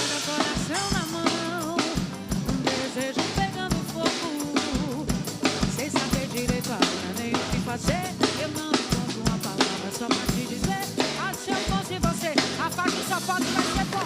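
Instrumental forró band music with a drum kit: a steady bass drum beat about twice a second, snare and rim hits, and a melodic lead over it.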